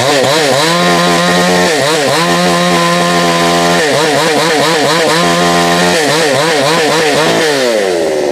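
Two-stroke chainsaw revved to full throttle, its pitch holding high with several brief wavering dips, then falling back toward idle near the end.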